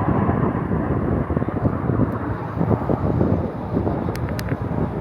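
Jet aircraft engine roar: a loud, steady, crackling rumble.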